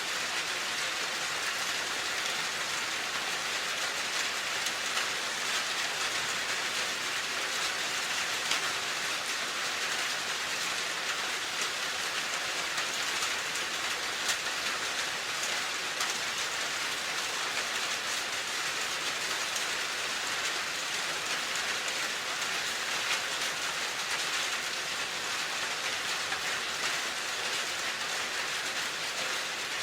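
Steady rain falling, a dense even patter with scattered sharper drop ticks.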